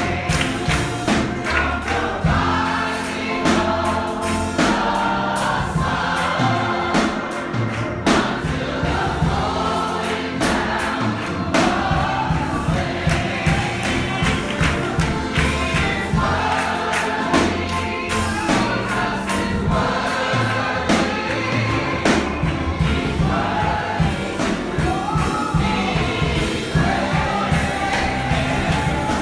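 Church congregation and choir singing a gospel song together, backed by a steady beat of drums or handclaps.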